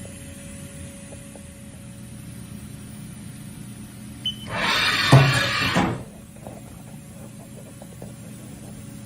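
Steady machine hum from a Haas VF-4 CNC vertical machining center. A click about four seconds in is followed by a loud hissing burst lasting about a second and a half.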